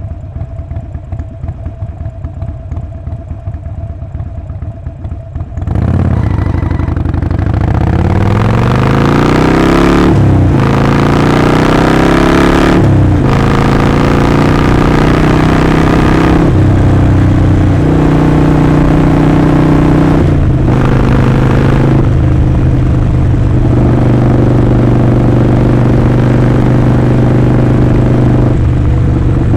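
Harley-Davidson Sportster Forty-Eight's air-cooled 1200 cc V-twin idling with a lumpy beat, then pulling away hard about six seconds in. The exhaust note rises through the gears, with a short break at each of four upshifts, and settles into steady cruising.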